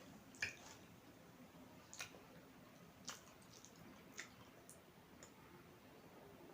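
Faint eating sounds of someone chewing instant noodles: about six short wet mouth clicks and smacks, roughly one a second.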